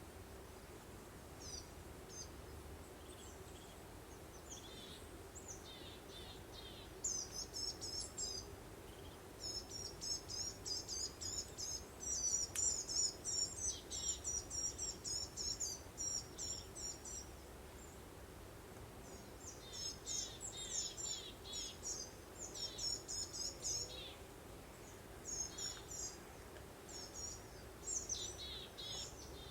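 Songbirds chirping and singing in quick high runs, busiest from about 7 to 17 seconds in and again from about 19 seconds on, over a steady low background of breeze noise.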